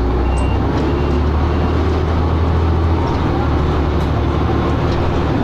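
Dennis Arrow double-decker bus running, a loud, steady low drone that eases slightly about three seconds in. Faint reversing beeps fade out in the first second or so.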